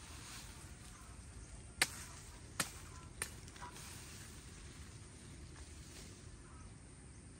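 Three sharp knocks, like chopping strikes, less than a second apart about two to three seconds in, over a steady low outdoor background.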